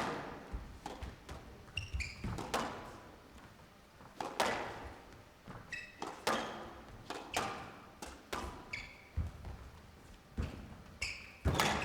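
Squash rally in a glass-court hall: sharp racket strikes and the ball hitting the walls, about one a second, each with an echoing tail, and a few short shoe squeaks on the court floor.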